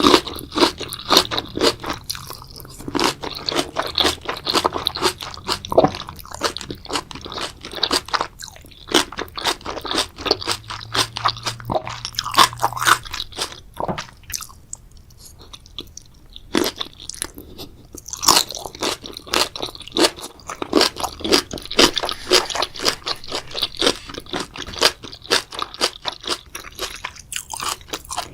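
Close-miked mukbang eating sounds: a person chewing and biting into spicy seafood boil, a dense run of short crunches and wet chewing with a few brief pauses.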